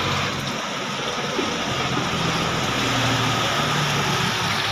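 Heavy rain pouring steadily, with a motor vehicle's engine running under it as a low hum.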